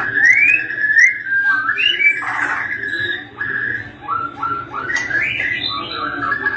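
White-rumped shama (murai batu) singing: a continuous run of clear whistles and rising slurred notes, with a quick string of short notes later on.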